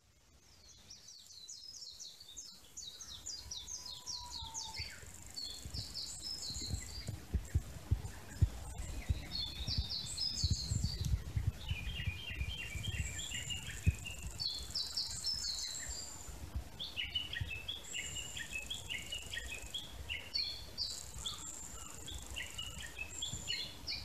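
Small songbirds singing in the trees, in quick repeated phrases of short high chirps, with a thin high buzz coming and going. Wind rumbles on the microphone, strongest around the middle.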